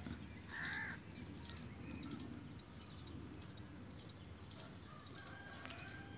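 Faint bird calls: one harsh, crow-like caw about a second in, over soft high chirping that repeats throughout.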